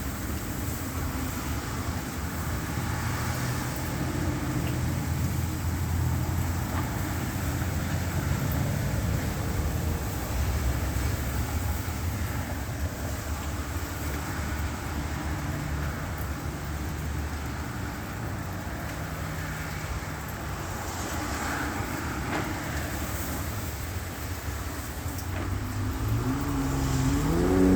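Road traffic and idling vehicle engines, a steady low rumble, with an engine revving up and rising in pitch near the end.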